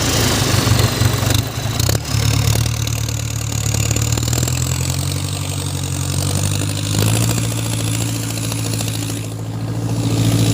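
Homemade 4x4 tractor's engine running steadily at low speed, its pitch shifting slightly about two seconds in and again about seven seconds in.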